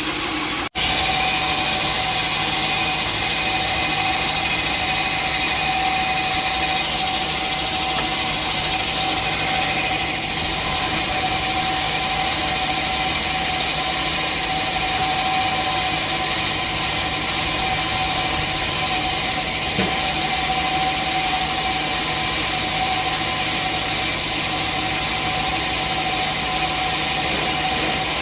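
Sawmill machinery running steadily between cuts: an even engine drone with a constant high whine, not cutting wood. The sound drops out for an instant less than a second in.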